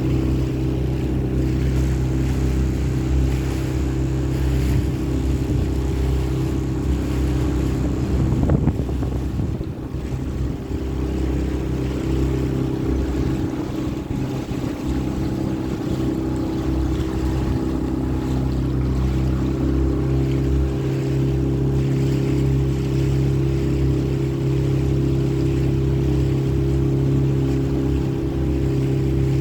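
A small hire motorboat's engine running steadily at cruising speed, with water rushing past the hull and some wind on the microphone. About eight seconds in there is a brief louder moment, then the level dips for a second or two before settling back.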